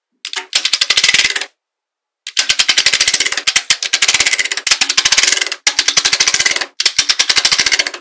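Small magnetic balls clicking against one another in rapid runs of many sharp clicks a second, in four bursts broken by short silences.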